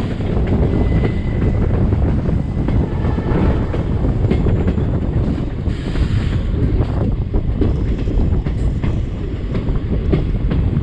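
Passenger train running, heard from on board with wind buffeting the microphone: a steady rumble with scattered clicks from the wheels on the track.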